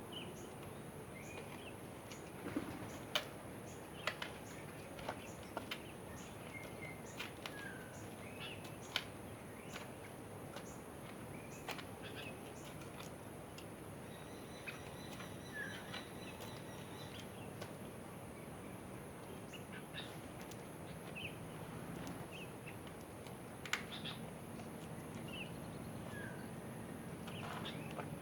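Birds calling in the open: scattered short chirps and sharp calls, one every second or so, over a steady background hiss.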